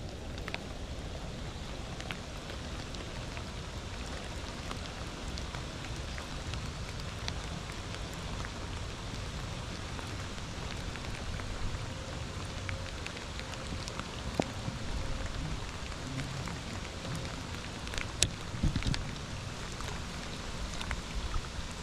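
Steady rain falling on lake water, with a few sharp knocks, the loudest about three-quarters of the way through.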